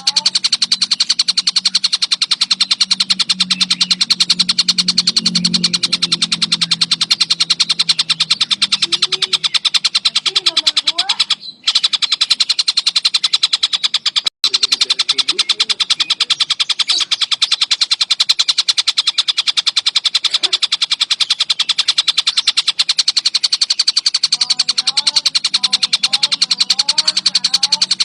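Recorded bird song: a very fast, even rattle of shrill calls that runs on without pause, cutting out briefly twice near the middle, with softer gliding warbles beneath it.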